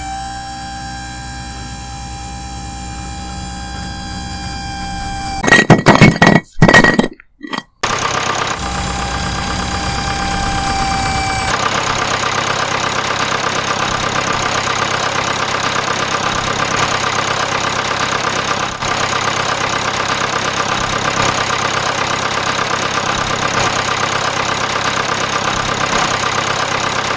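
A small engine running steadily, interrupted about six seconds in by a few loud knocks, then running on with a fast, even pulse.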